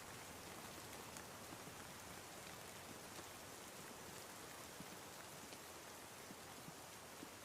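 Steady rain: a soft, even hiss with faint scattered drop ticks.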